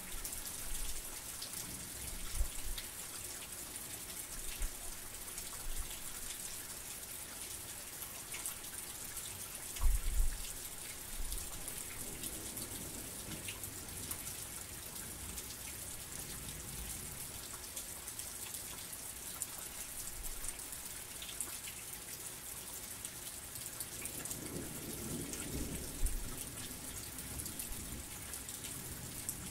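Heavy rain falling steadily, a dense even hiss. Two short low thuds stand out from it, one about a third of the way in and one near the end.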